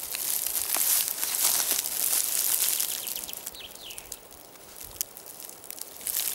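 Rustling and crackling of dry leaves and forest litter, loudest in the first three seconds and then fading, with a brief falling whistle about three and a half seconds in.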